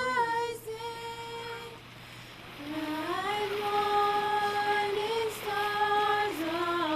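A solo voice singing a slow melody in long held notes that slide from one pitch to the next, with a short pause about two seconds in.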